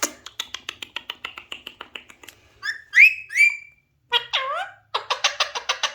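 Alexandrine parakeet making a fast run of clicking chatter that slows and fades, then a few short rising whistled notes, a swooping call, and another quick burst of clicking chatter.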